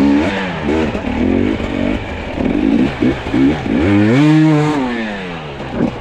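Two-stroke enduro dirt bike engine revved in short throttle blips, then one longer rev that rises and falls about four seconds in.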